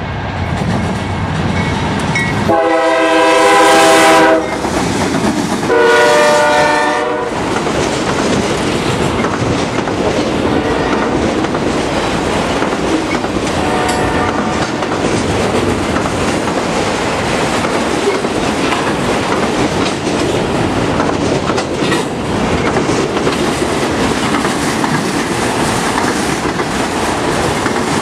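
Freight locomotive's multi-tone air horn sounding two blasts for a grade crossing, the first longer, about three and six seconds in. Then the CSX autorack freight train passes steadily, its cars running by on the rails.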